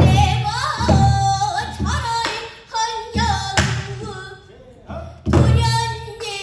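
A girl's voice singing pansori with sliding, bending notes, broken by short pauses. She is accompanied by five strokes of a buk barrel drum.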